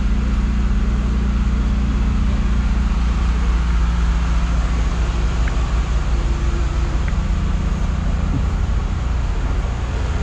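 Steady low mechanical hum, like an engine or machine running, with no change in pitch or level.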